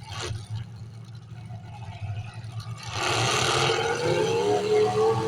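Demolition derby car engines rumbling steadily. About three seconds in comes a sudden louder burst as an engine is revved hard, and the engine sound stays louder and wavering after it.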